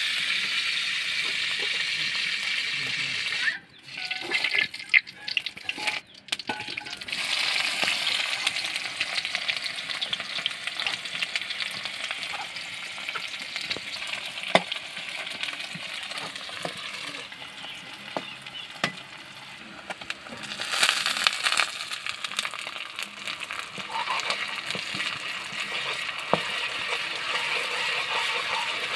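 Sliced onions frying in hot mustard oil in a steel kadai, a steady sizzle with a metal spoon clicking and scraping against the pan as they are stirred. The sizzle drops away briefly a few seconds in, then comes back.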